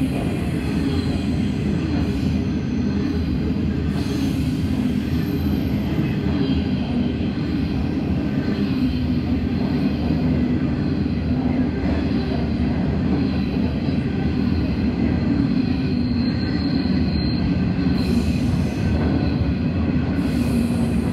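Coal hopper wagons of a freight train rolling steadily past at close range: a continuous rumble and rattle of wheels on rail, with a faint high wheel squeal over it.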